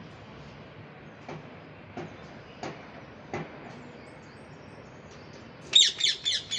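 Parrot giving a quick run of four or so loud, high, downward-sweeping calls near the end. Earlier, four short clicks come about two thirds of a second apart over a steady low hiss.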